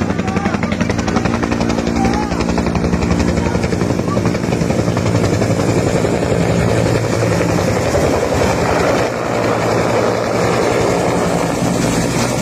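Helicopter flying close overhead: the rapid, steady chop of its rotor blades over a low turbine hum.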